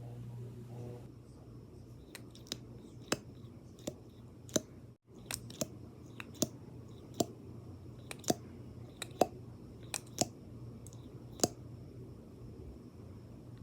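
Sharp taps and clicks on makeup items, a dozen or so at uneven spacing, over a low steady hum, with a brief dropout in the audio near the middle.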